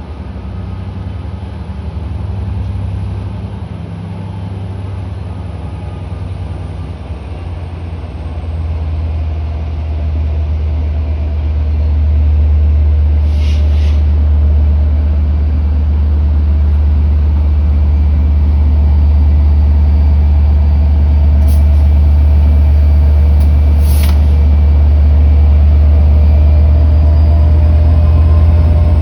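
Diesel freight locomotive rumbling deep and steady, growing louder over a few seconds about a third of the way in and staying loud as it nears. A few short sharp noises cut through it, about halfway and later twice more.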